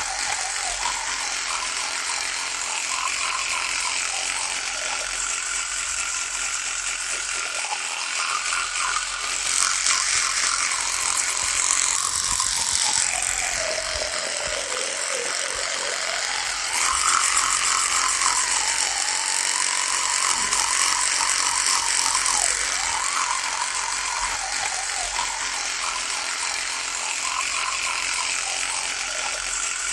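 Electric toothbrush buzzing continuously, its pitch wavering. About midway the buzz drops lower for a few seconds, then rises back, and two stretches sound louder and brighter.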